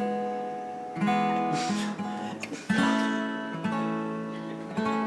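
Acoustic guitar being strummed: chords struck roughly once a second, each left to ring.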